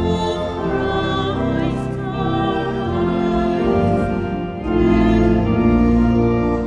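Organ with voices singing a slow hymn in held, sustained notes.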